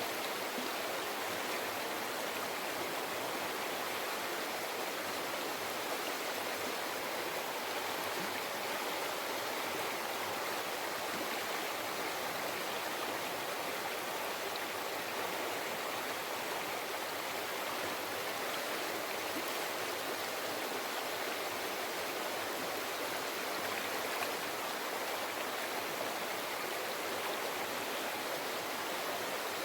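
Mountain forest river flowing: a steady, unbroken rush and babble of water.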